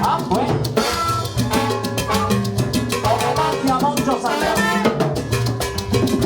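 Live salsa band playing an instrumental passage: piano, bass, timbales, congas and trombones.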